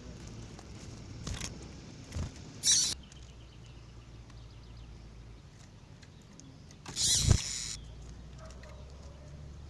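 A few short, harsh bird calls, probably double-collared seedeaters (coleiros), over a low steady hum: brief ones in the first three seconds and a longer, louder one about seven seconds in.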